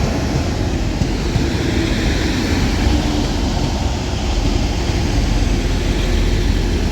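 Two coupled Class 185 diesel multiple units pulling into the platform, a steady low rumble of engines and wheels with a faint steady tone through it.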